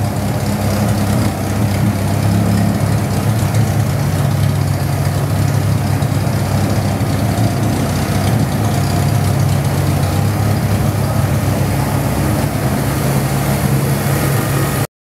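Chevrolet Opala engine idling steadily with a deep, even exhaust note; the sound cuts out for a moment near the end.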